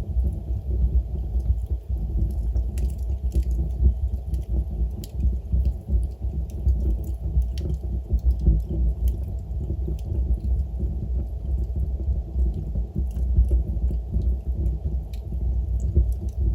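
Log fire burning in a fireplace: a steady low rumble of the flames with scattered light crackles and pops from the burning wood.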